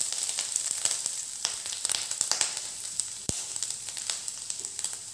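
Food frying in hot oil in a pan: a steady sizzle with small crackles and pops, and one sharper click about three seconds in.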